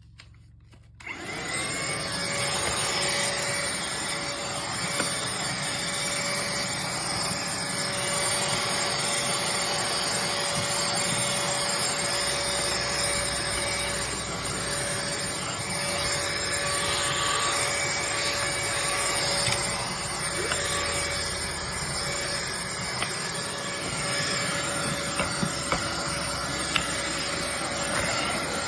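HOMEKANE cordless handheld vacuum cleaner switched on about a second in, its motor spinning up, then running steadily with an even whine over a rush of air.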